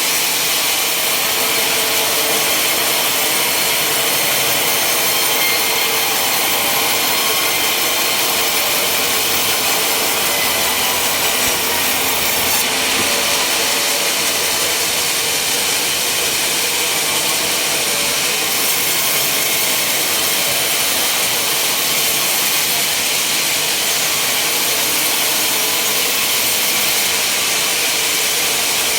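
Sawmill saw cutting lengthwise through a log: a loud, steady sawing noise that holds without a break.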